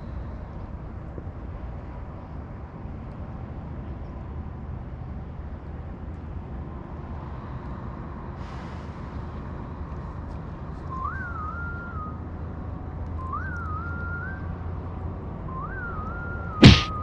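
A short whistled phrase, a quick rise then a drop to a held note, heard three times about two and a half seconds apart over a steady low rumble. A single sharp, loud knock comes near the end.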